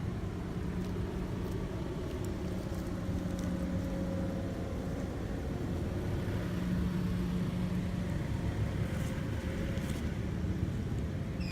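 Steady engine-like hum with a low held drone, running without a break.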